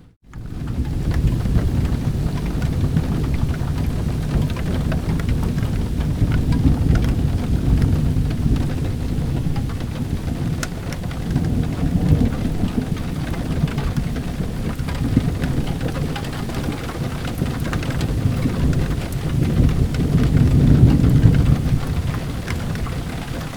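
Steady rain with deep rolling thunder that swells and fades several times, loudest about twenty seconds in, and scattered small clicks over it. The sound drops out for a split second at the very start.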